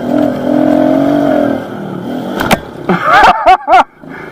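Small pit bike engine running steadily, easing off about halfway, then a few quick, loud throttle blips near the end.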